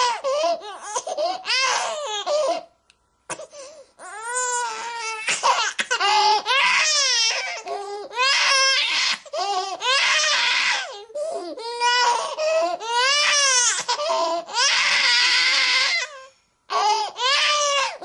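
Baby crying: a run of loud, rising-and-falling wails broken by short pauses for breath. A harsher, more strained cry comes about 15 seconds in.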